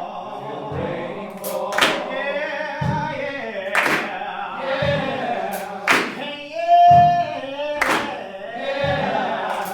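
Ensemble of stage singers, mostly men, singing a chain-gang work song. Sharp percussive hits land roughly once a second as its beat, and one voice holds a long, steady note about seven seconds in.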